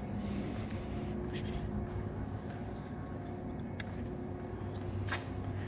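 A steady low hum with a few short clicks, two of them in the second half.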